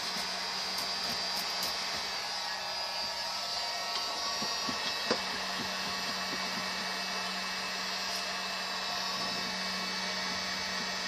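Small electric blower running steadily, an even rushing with a low hum, and a sharp click about five seconds in.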